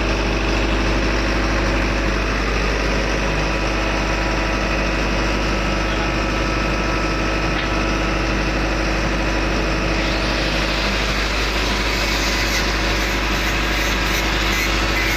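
Steady drone of ship engine-room machinery running, with an even hum and held tones. Faint regular ticking joins in over the last few seconds.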